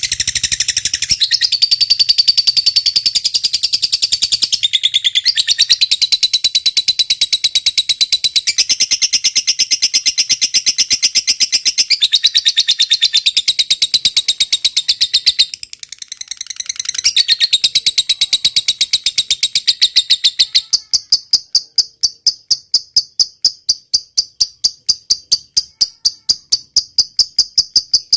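Lovebird trilling: a long, fast, high-pitched chattering song that breaks off briefly about 16 seconds in. Near the end it gives way to an insect's rhythmic chirping, about two to three pulses a second.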